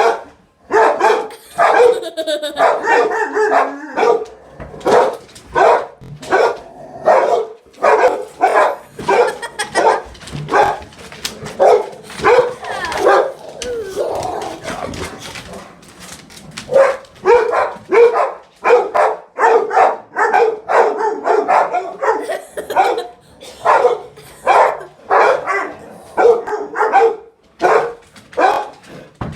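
Dog barking over and over, about one or two barks a second, in an excited, agitated run. Near the middle the barks give way to a stretch of higher, wavering cries before the barking resumes.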